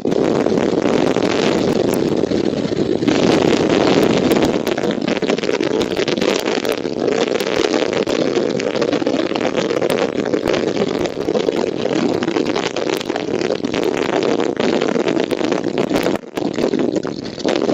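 Strong wind buffeting the nest camera's microphone: a loud, continuous rumbling roar with frequent crackles, dipping briefly near the end.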